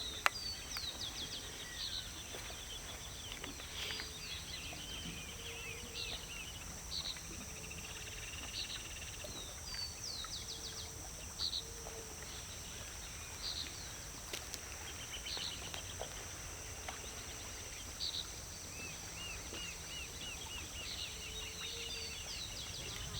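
Songbirds chirping and calling in quick, repeated short notes, over a steady high-pitched drone and a low background rumble.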